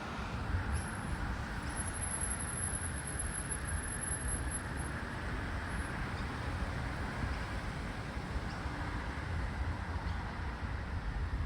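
Steady low outdoor rumble with a thin, very high-pitched insect buzz that starts just under a second in and stops about five seconds in.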